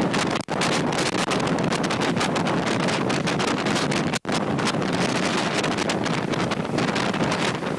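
Strong tornado wind buffeting a camera microphone: a dense rushing noise with constant crackling gusts, broken by two very short dropouts about half a second and four seconds in.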